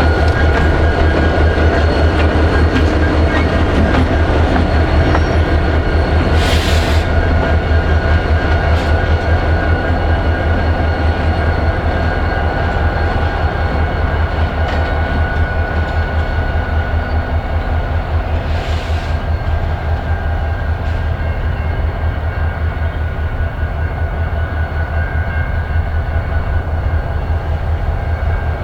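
Diesel switching locomotive BRR 5353 running with a steady low engine throb. Two short hisses come about 7 and 19 seconds in.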